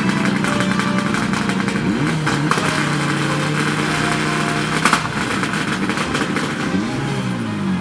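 Rally car engine revving: the pitch climbs and holds for a couple of seconds, then sweeps up and down again near the end. A sharp crack comes about five seconds in.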